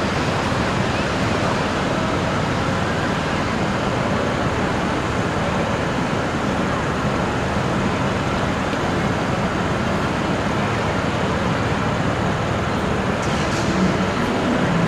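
Steady, loud rushing noise of a train running at speed.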